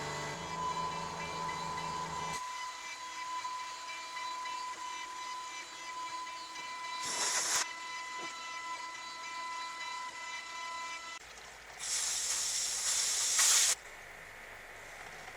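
Workshop machine running with a steady whine made of several tones; a low hum under it stops about two seconds in and the whine stops about eleven seconds in. Two bursts of loud hiss come about seven and twelve seconds in, the second longer and louder.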